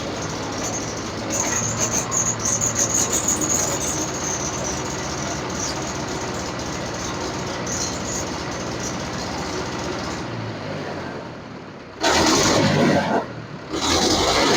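Swaraj 843 tractor's diesel engine running, with a high whine in the first few seconds and two loud surges near the end. The engine keeps running only while the governor rod is held aside, because petrol was put in the tank instead of diesel.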